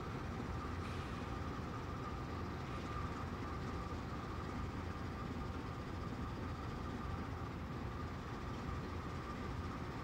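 Steady rumble of a Norfolk Southern freight train, with a constant high hum over it.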